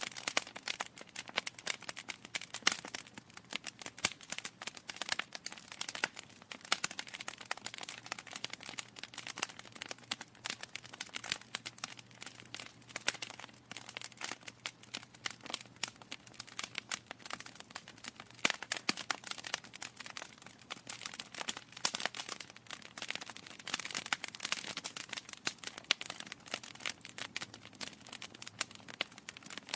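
Burning logs in a fireplace crackling, a dense, irregular run of pops and snaps with a faint low hum underneath.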